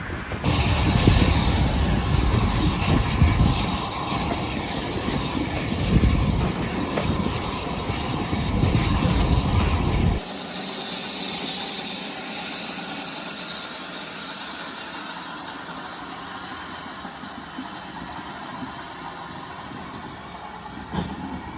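GWR 5600-class tank locomotive 5619 hissing steam over a heavy low rumble. About ten seconds in, the rumble cuts off suddenly and a steady steam hiss continues alone.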